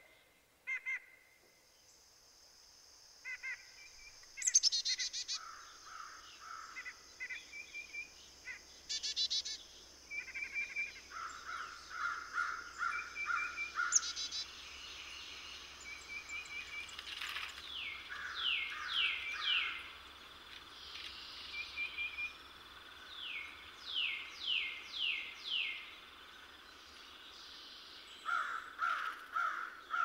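Several songbirds calling and singing: short chirps and trills, then runs of quick down-slurred whistles in the second half.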